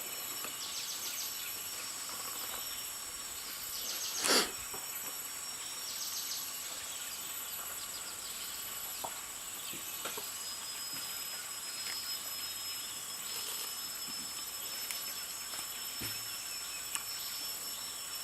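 Weaver birds chattering in short bursts of rapid chirps every few seconds, over a steady high-pitched insect drone. One brief, louder sound comes about four seconds in.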